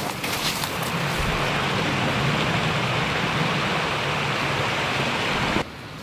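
Heavy rain falling, a steady rushing hiss with a low hum underneath, cutting off suddenly near the end.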